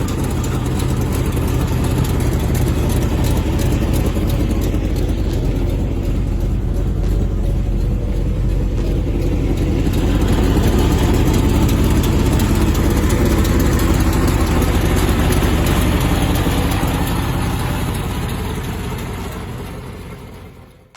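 A 1947 Chevrolet Classic sedan's engine running steadily at idle, a little louder from about halfway through, then fading out near the end.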